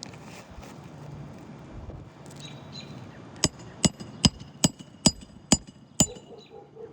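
Hammer nailing down a new roof shingle: seven quick, ringing strikes, evenly spaced, starting about halfway through.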